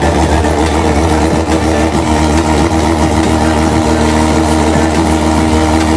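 A superbike's engine idling steadily through its exhaust, with an even, unchanging note.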